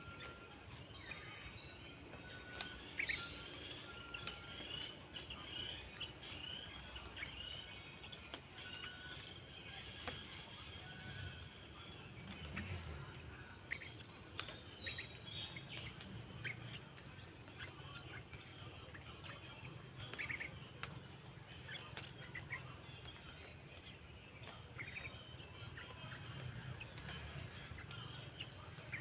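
Birds chirping in short scattered calls over a steady insect chorus, with insects trilling in repeated pulsed bursts about a second long.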